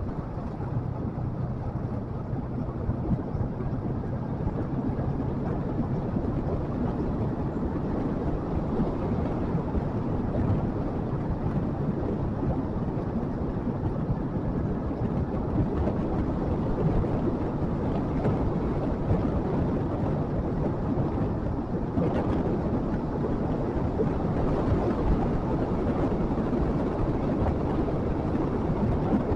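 Motorcycle on the move: a steady engine note mixed with wind and road noise, the engine's tone fading into the rush after about six seconds.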